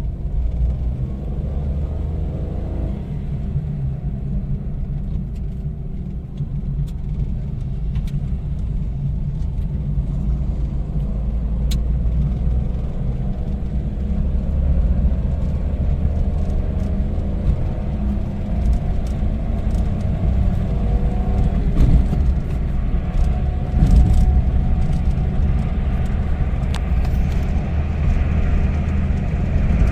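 Toyota Wigo's small three-cylinder engine pulling the car along the road with low road rumble, its note climbing slowly and getting louder as the car gathers speed. It runs on a new ignition coil that has cured the cylinder 1 misfire.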